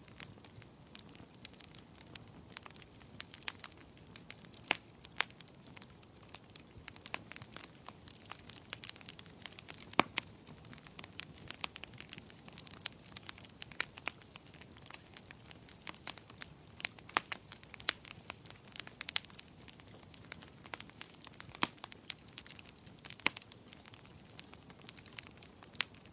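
Wood fire crackling and popping, with irregular sharp snaps over a soft low hiss of burning.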